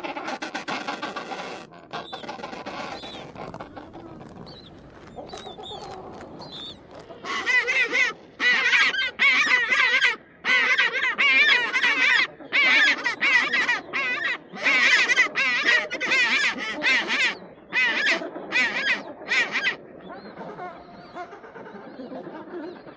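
Penguins calling: quieter calls at first, then a loud rapid series of short, harsh honking calls with brief gaps between them for over ten seconds, dying back to quieter calling near the end.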